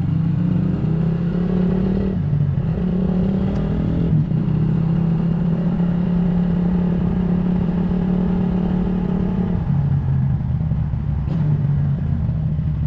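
Motorcycle engine running steadily at close range, its pitch stepping down and back up a few times as it changes speed.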